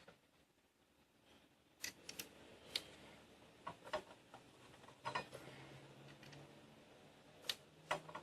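Faint, irregular light clicks and metallic taps, starting about two seconds in, from a hand tool and brake parts being handled as a motorcycle's brake pad retaining pin is fitted and tightened in the caliper.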